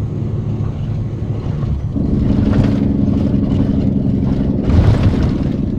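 Semi-truck driving at highway speed: steady engine and road rumble, with a droning note that sets in about two seconds in and a couple of louder jolts near the end, on a rough stretch of road.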